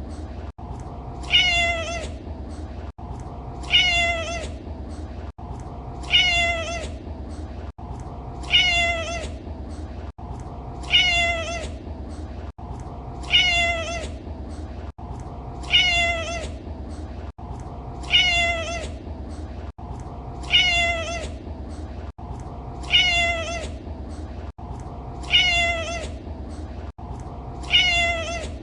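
Domestic cat meowing, the same short meow repeated at even intervals about every two and a half seconds as a loop, with a steady low hum underneath.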